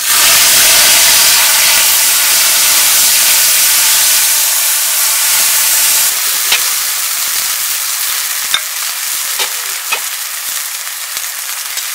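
Food frying in a hot pan with a loud sizzle that starts suddenly and slowly dies down, with a few sharp pops in the second half.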